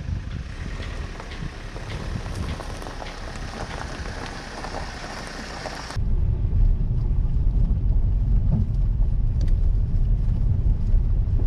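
A car on the move: steady low road and wind rumble with scattered small ticks. About six seconds in it changes abruptly to a louder, deeper rumble.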